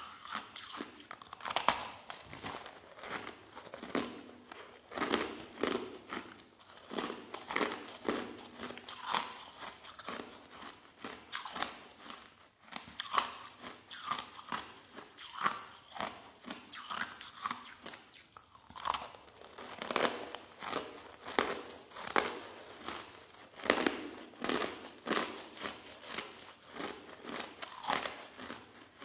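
Crushed ice being bitten and chewed up close, an irregular run of soft, crunchy crackles.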